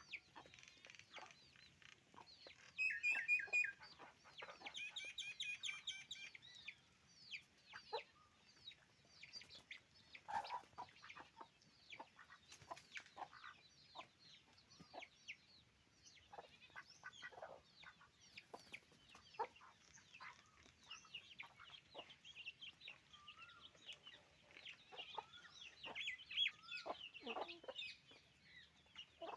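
Chickens clucking and calling, with many short chirps throughout. The loudest part is a run of rapid repeated calls about three to six seconds in.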